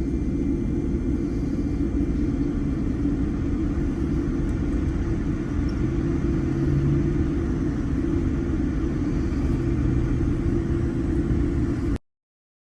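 Steady low rumble inside an airliner cabin on the ground after landing, from the engines and cabin air. It cuts off suddenly near the end.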